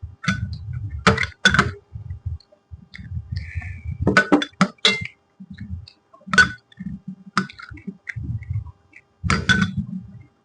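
Close-miked chewing: runs of low, muffled chewing sounds at a steady pace, broken by several sharp crisp crunches or clicks, the loudest about a second in, between four and five seconds in, and near the end.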